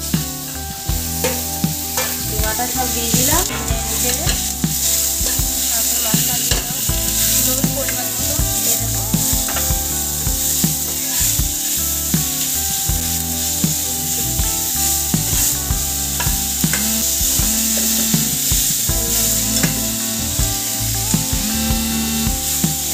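Minced chicken frying in hot oil with onions, sizzling steadily, while a metal spatula stirs it and clicks and scrapes against the pan many times.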